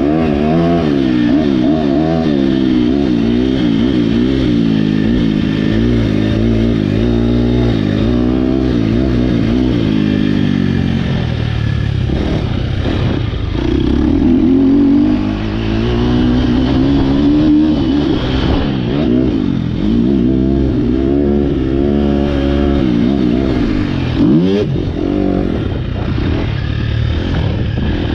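2023 KTM 250 SX-F's single-cylinder four-stroke engine, breathing through an Akrapovic Evolution Line exhaust, revving up and down again and again under hard throttle and gear changes on a motocross track, with one longer pull about halfway through.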